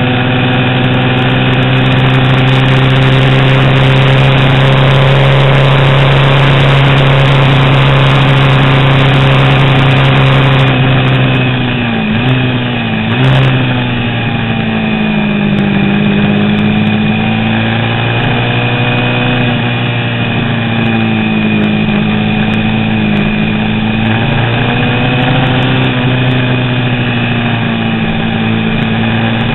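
A vintage 350 cc racing motorcycle engine running at steady, constant revs. About halfway through the revs drop, then rise and fall slowly and unevenly at low speed, as when the rider eases off.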